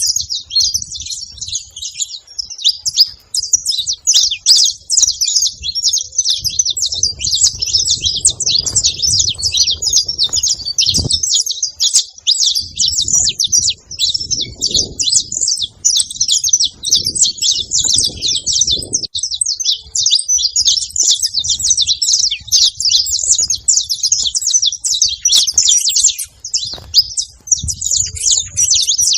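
A group of saffron finches (canários-da-terra) chirping and singing together in a dense, continuous chatter of quick high notes.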